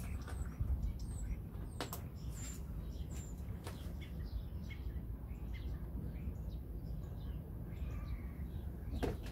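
Small birds chirping now and then over a low steady rumble, with a sharp click about two seconds in and another near the end.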